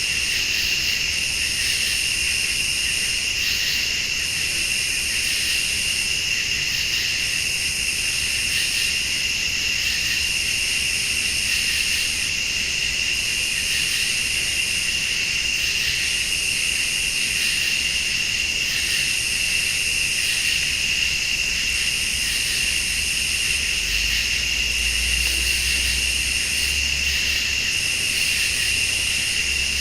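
Night chorus of crickets and late-summer insects: a steady high trill, with a higher insect call pulsing on and off about every three seconds.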